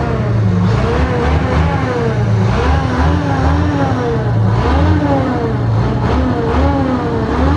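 Bedford truck engine being revved over and over, its pitch rising and falling about once a second.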